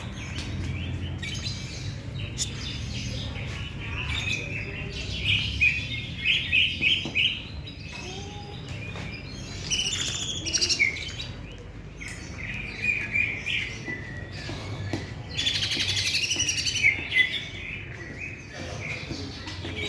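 Cucak ijo (green leafbird) singing a long, varied run of quick chirps and short whistled phrases, with a dense buzzy rattle about three-quarters of the way through.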